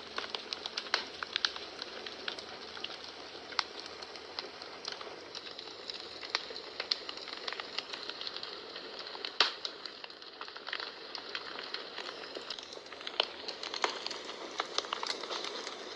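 Wood fire burning in a fireplace: a steady hiss with frequent irregular crackles and pops, one louder pop about nine seconds in.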